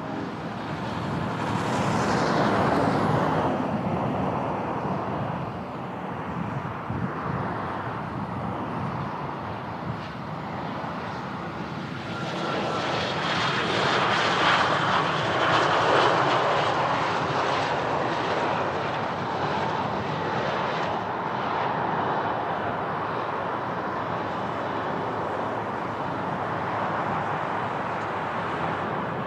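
Aircraft engines passing close by, with a whine that falls in pitch in the first few seconds and a second swell loudest around the middle. Wind rumbles on the microphone throughout.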